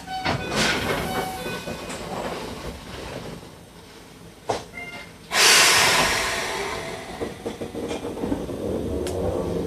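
Enoshima Electric Railway 1000-series train setting off from a station. A clatter at the start; then, about five seconds in, a sudden loud hiss of air as the brakes release, fading over a couple of seconds, before a few wheel clicks as the car begins to roll.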